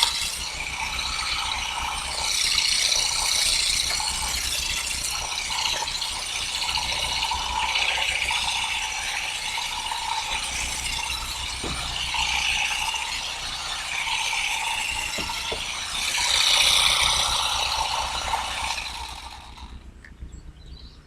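Olive harvesting tool with heavy-duty nylon parts running in the branches with a steady mechanical clatter; it stops near the end.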